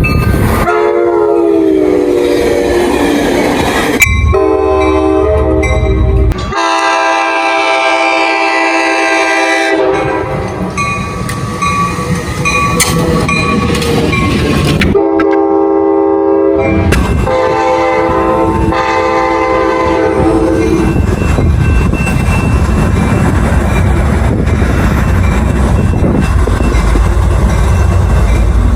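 Diesel locomotive horns sounding a series of chord blasts, several short takes cut one after another. After that, a passing train's wheels rumble and clack along the rails for the last part.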